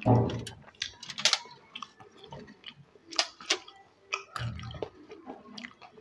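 Close-up wet chewing and mouth sounds of someone eating soft, milky custard kheer, with many short sharp smacks and clicks. There are two low muffled swells, one at the start and one about four and a half seconds in.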